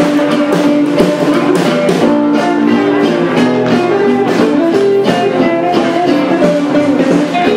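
Gypsy-jazz swing music led by guitars, with pitched guitar lines over a steady strummed beat.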